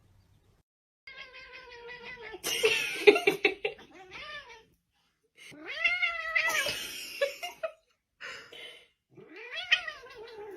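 A cat yowling in three long, drawn-out calls, each bending up and then down in pitch.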